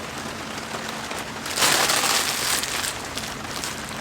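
Steady rain falling on a tarp, with a louder hiss that starts suddenly about one and a half seconds in and lasts about a second.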